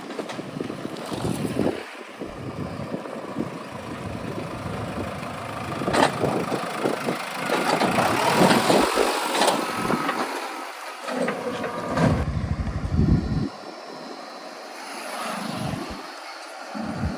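Heavy diesel vehicle running and driving, its engine noise rising and falling, loudest about halfway through, with a deep rumble shortly after.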